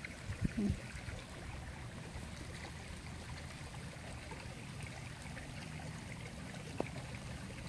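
Steady light rain falling on a pond's surface and the plants at its edge, an even hiss of drops. A few brief low knocks come in the first second, and a single short tick near the end.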